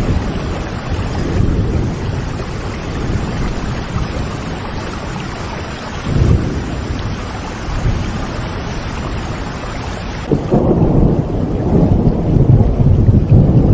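Steady rain falling, with rumbles of thunder: a short one about six seconds in and a longer, louder rolling one from about ten seconds in to the end.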